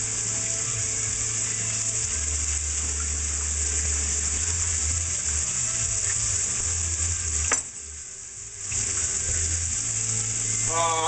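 Chicken pieces sizzling steadily in a hot frying pan, just after going in. About seven and a half seconds in there is a sharp click, and the sizzle drops away for about a second before it comes back.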